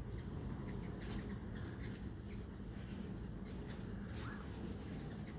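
Hummingbirds giving scattered short, high, squeaky chips and twitters over a steady low background rumble.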